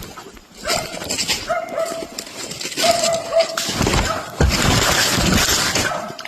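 A dog whining in several short, steady high notes, followed about four seconds in by a louder stretch of noise lasting a second or two.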